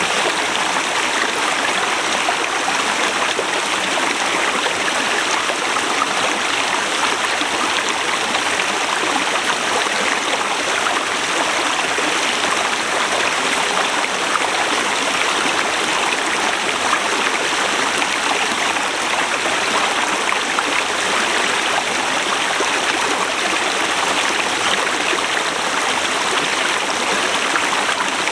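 Forest river flowing steadily over rocks: a constant rushing and gurgling of water.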